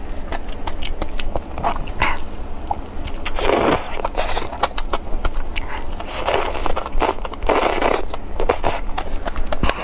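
Close-miked wet chewing and lip smacks while eating sauce-coated, bacon-wrapped enoki mushrooms, with a steady run of small mouth clicks. A few longer sucking noises come about three and a half, six and a half and seven and a half seconds in.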